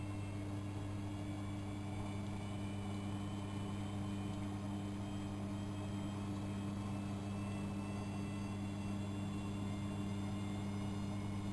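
AEG Electrolux Lavamat L6461 washing machine running on a 95 °C boil wash: a steady low hum with a faint high whine that rises slowly.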